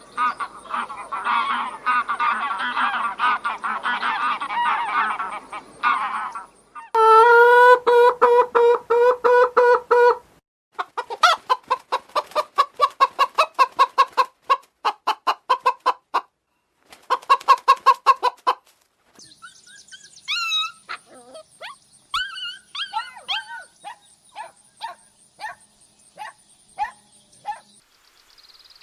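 Birds calling in a string of separate clips: first a dense chatter of many birds together, then loud pitched calls repeated several times a second, then rapid runs of short calls, and near the end scattered sharp high calls.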